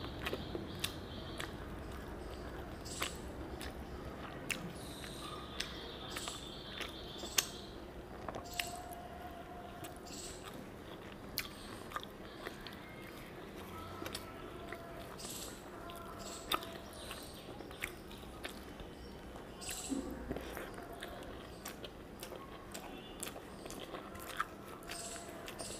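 A person chewing a mouthful of rice and fish curry, with frequent small wet clicks and lip smacks.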